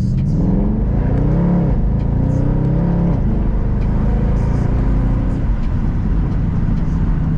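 Mercedes-AMG C63's 6.2-litre V8 accelerating: the engine note climbs, drops at a gear change about a second and a half in, climbs again, drops at a second shift about three seconds in, then settles to a steady cruise.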